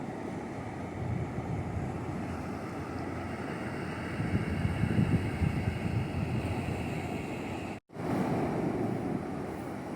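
Ocean waves washing onto a beach, with wind buffeting the microphone. The surf swells louder around the middle, and the sound drops out for an instant near the end.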